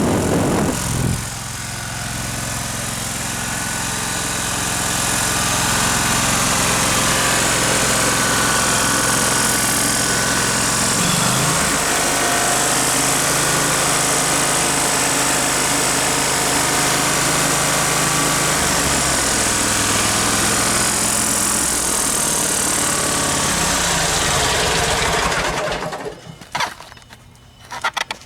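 Kohler engine on a Dixon zero-turn mower running steadily after new ignition coils and spark plugs, its speed shifting a few times. It shuts off about 26 seconds in, and a few clicks follow.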